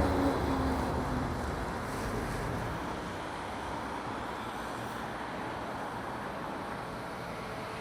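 City street traffic noise: a passing vehicle rumbles loudest in the first second, then fades into a steady wash of road traffic.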